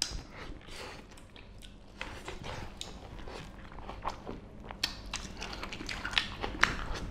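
Two people eating meat curry and rice by hand: close, wet chewing and biting into pieces of mutton and pork, with many irregular small clicks and smacks.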